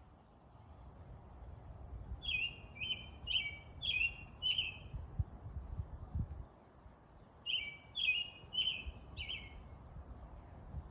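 A songbird singing two short phrases of about five quick, repeated chirps each, the first a couple of seconds in and the second about three seconds later, with a few faint, thin, very high calls in between.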